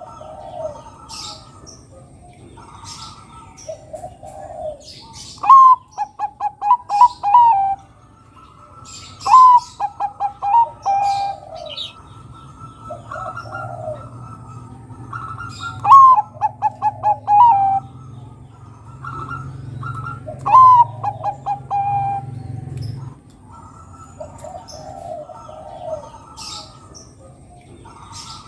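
Zebra dove (perkutut, Bangkok type) singing: four loud phrases, each a clear opening note followed by a quick run of short staccato coos. Softer coos sound between the phrases, with faint high chirps of small birds.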